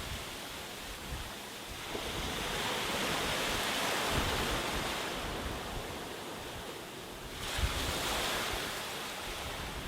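Sea waves breaking and washing on a beach: the surf swells about two seconds in, and another wave breaks more suddenly about seven and a half seconds in. Low rumbling of wind on the microphone lies underneath.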